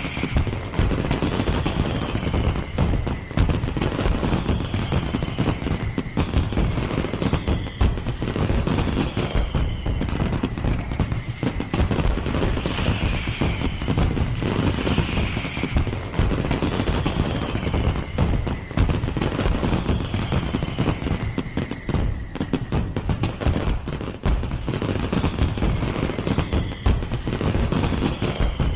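Firework display: a dense, continuous barrage of bangs and crackles, with repeated falling whistles every second or two.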